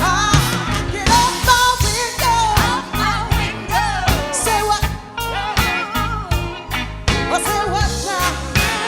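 Live soul band with drums and bass playing a Memphis soul number, with a voice singing wordless, bending runs over the beat.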